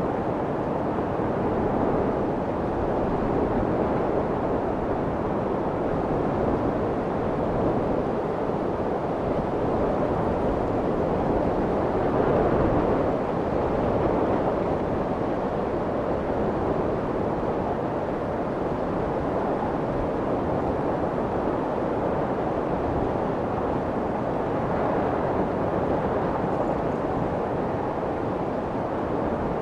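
Steady, muffled white noise for soothing a baby, meant to imitate the sound of the womb, with gentle slow swells in level and little hiss.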